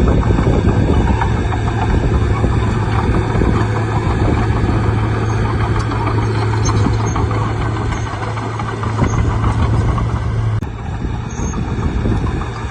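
Bulldozer's diesel engine running steadily under work, with a strong low hum that cuts off abruptly near the end.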